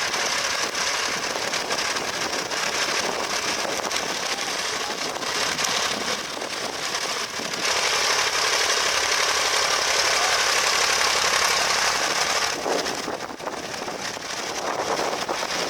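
Vintage tractor engine running under work in the field, a rapid pulsing beat. It grows louder about halfway through and dips briefly near the end.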